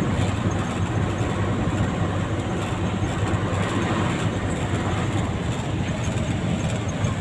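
Cab-interior drone of a Mitsubishi Fuso 10DC11 tractor head's V10 diesel engine running steadily under way, with road and drivetrain noise.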